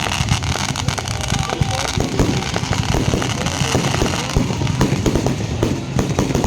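Fireworks going off: a dense, unbroken run of bangs and crackles in quick succession.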